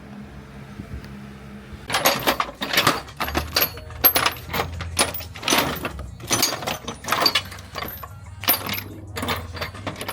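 A busy run of clinks and rattles from small hard objects being handled, starting about two seconds in, over a faint low hum.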